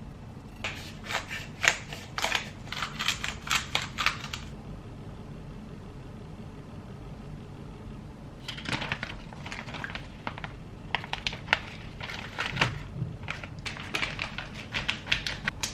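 Rapid sharp taps in two runs, about four or five a second, from kitchen work during food preparation.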